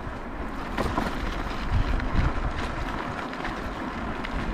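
Steady wind rushing over the microphone with low rumble while riding a bicycle.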